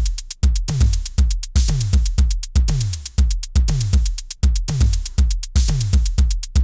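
Programmed drum-machine beat looping in Soundtrap: deep kick drums, each dropping in pitch, hit about three times a second over fast, steady high ticks. A brighter, hissier hit comes twice, about four seconds apart.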